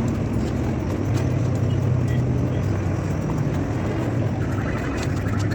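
Tea-factory processing machinery running with a steady low hum.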